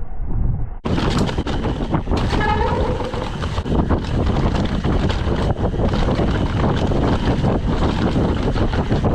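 Wind rushing over the microphone of a chest-mounted action camera, mixed with the rumble and rattle of a Trek Session downhill mountain bike running fast over a rough, wet trail. The sound opens up suddenly just under a second in. A brief pitched, wavering squeal comes through about two and a half seconds in.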